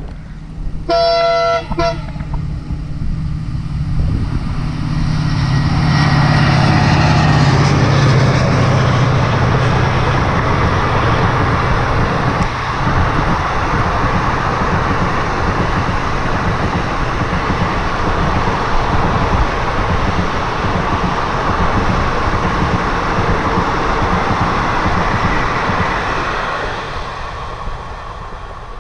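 Passenger express train passing close by: the locomotive gives a short horn blast about a second in, then it goes by loudest around six to ten seconds in, and the long rake of coaches follows with a steady rolling rumble that fades near the end.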